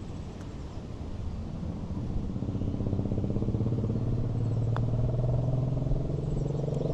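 A motor vehicle's engine running steadily, coming up about two seconds in and growing louder, over low wind rumble, with one sharp click near the end.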